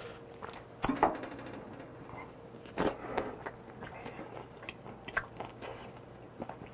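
Close-up mouth sounds of a man chewing and smacking just after downing a shot of soju: wet clicks and smacks, with the sharpest clicks about a second in and again near three seconds.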